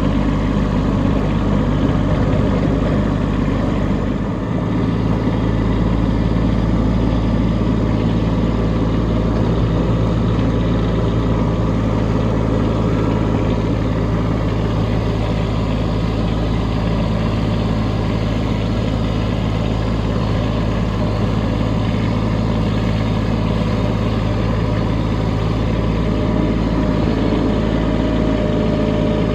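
Kubota B2601 compact tractor's three-cylinder diesel engine running steadily while plowing snow. Its note shifts slightly about four seconds in.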